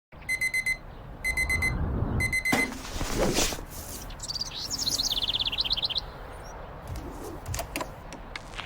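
Digital alarm clock beeping: three bursts of four quick high beeps. Then some rustling and a fast warbling chirp about four seconds in, with a few clicks near the end.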